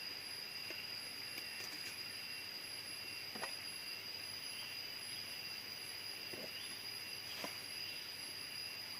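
Jungle ambience: insects buzzing in steady high, unbroken tones over a faint hiss, with a few faint clicks or snaps.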